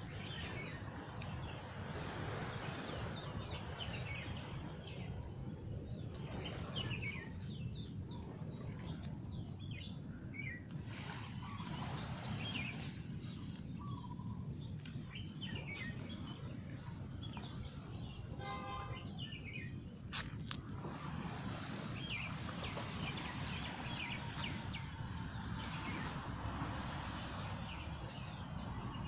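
Small birds chirping and calling over a steady low rumble of outdoor background noise, with a short rapid trill about two-thirds through and a single sharp click just after it.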